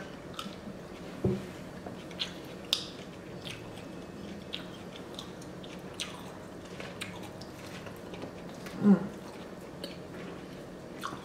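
Close-miked eating of a fresh rice-paper spring roll with grilled chicken and peanut sauce: soft, sparse mouth clicks and smacks as the chewy wrapper is bitten and chewed, with a brief hummed 'mm' about nine seconds in.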